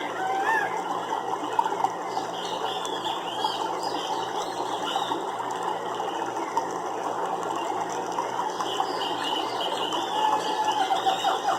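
Nature soundscape of a dense, rattling animal chorus: many rapid clicking calls overlapping without a break, with short arched chirps over it near the start and again near the end.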